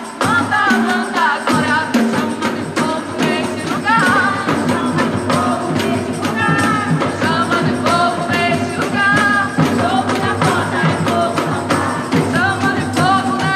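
Gospel worship song played by a band: singing voices over a steady drum beat and bass.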